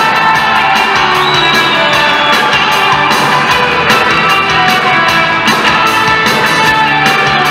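Live band playing an upbeat instrumental passage between verses of a pop-rock song, with a steady drum beat under sustained guitar and keyboard lines.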